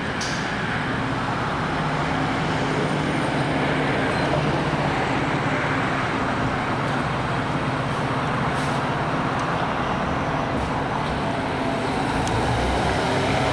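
Road traffic noise with a heavy vehicle's engine running steadily, growing slightly louder over the first few seconds.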